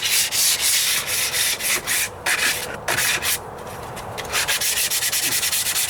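Sandpaper rubbed by hand over spot putty and body filler on a truck's steel rocker panel, in repeated rasping strokes. The sanding eases off around the middle and picks up again with quicker, shorter strokes near the end.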